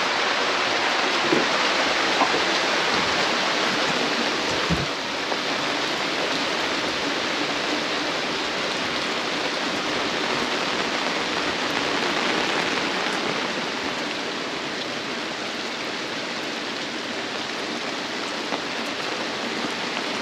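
Heavy rain pouring down in a steady downpour, with a few faint knocks in the first few seconds.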